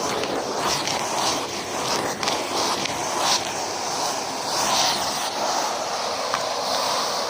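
Numatic James cylinder vacuum cleaner running with the microphone close to it, its motor a steady hum under a rushing hiss of suction that swells and fades as the tool moves.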